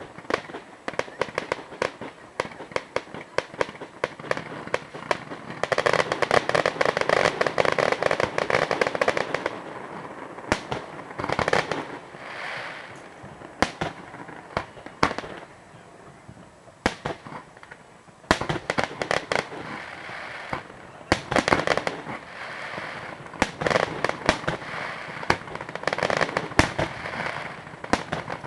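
Fireworks display: a steady run of sharp bangs, a dense stretch of crackling several seconds in, then scattered single bangs with short pauses, and more crackling volleys in the second half.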